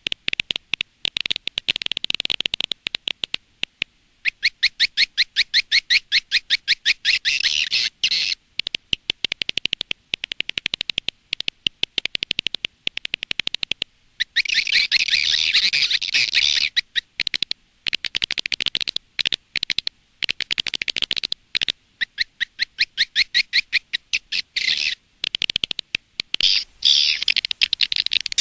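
Recorded swiftlet calls: fast, chattering trains of sharp chirps in bursts of a few seconds, repeating with short breaks. This is a swiftlet-lure track of the kind played outside a bird house to draw swiftlets in to nest.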